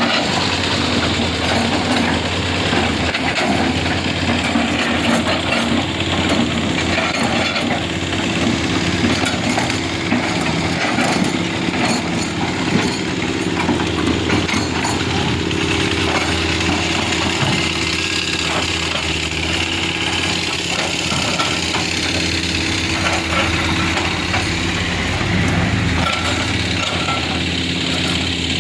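Heavy engines running steadily, the motor noise of vehicles and earth-moving machinery at a road repair site, with a few scattered knocks.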